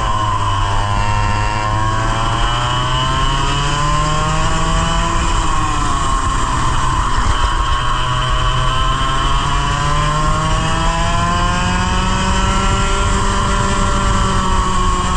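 100cc two-stroke kart engine running hard, heard onboard. Its pitch dips and climbs again several times as the revs fall into corners and rise on the straights.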